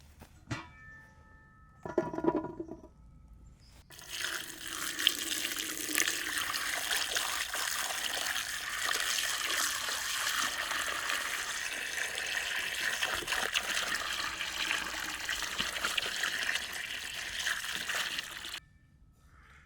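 Water running or pouring steadily for about fifteen seconds, starting about four seconds in and cutting off suddenly near the end, after a couple of short knocks.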